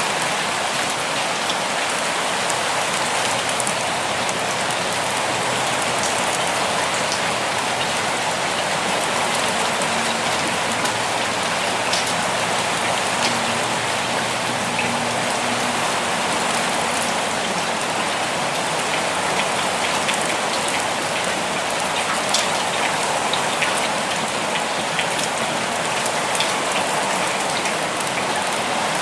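Steady rainfall: a dense, even hiss of rain with scattered sharper drop impacts.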